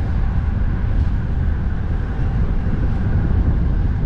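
Strong wind rumbling steadily on the microphone of a moving cyclist, mixed with road traffic noise.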